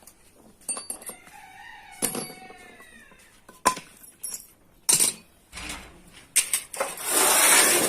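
Scattered sharp metallic clinks and knocks, like metal pieces struck or set down, with a short wavering call about two seconds in and a loud rushing noise near the end.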